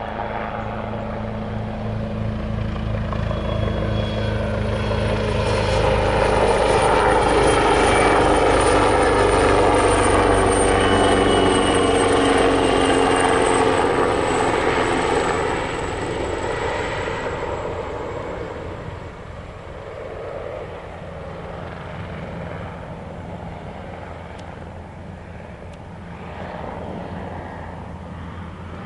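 AgustaWestland AW139 twin-turbine helicopter flying past: low rotor thrum with a high turbine whine. The sound grows louder, peaks about six to fifteen seconds in with the whine dropping slightly in pitch, then fades as the helicopter moves away.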